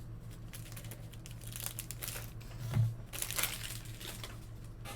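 Crinkling and rustling of plastic packaging as sports trading cards are unwrapped and sorted, with a dull thump about three seconds in.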